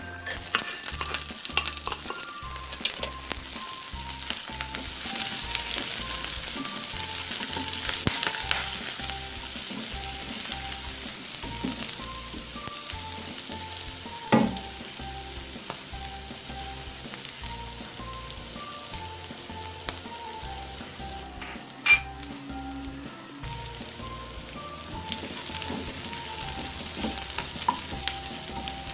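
Chopped shallots, garlic, chili and kaffir lime leaves sizzling in hot oil in a wok while being stirred. The sizzle jumps up at the start as the aromatics slide into the oil, and there are two sharp knocks, one a little past the middle and one later.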